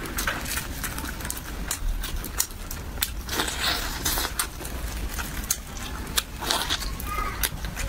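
Close-miked eating of braised pork ribs: wet clicking and smacking mouth sounds of biting and chewing meat off the bone, with a few louder bursts, over a low steady hum.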